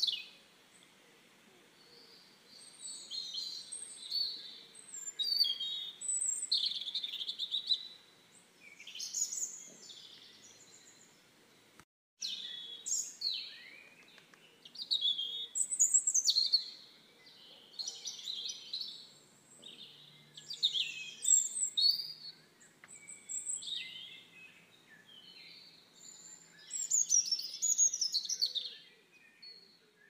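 Songbirds singing: short, high chirping phrases one after another with brief pauses between them. The sound drops out for a moment about twelve seconds in.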